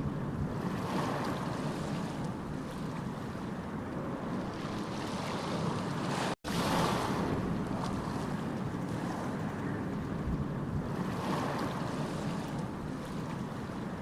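Water rushing and sloshing in slow swells that rise and fall every few seconds, with a brief cut about six seconds in.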